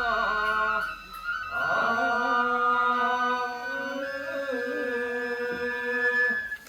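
Nembutsu chanting accompanying a kenbai sword dance: long held, wavering sung notes. The chanting breaks off briefly about a second in and stops near the end.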